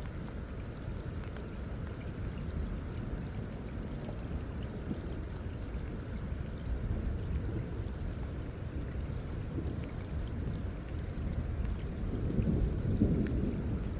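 Wind buffeting the microphone as a steady, uneven low rumble, with light rain falling; the wind gusts stronger near the end.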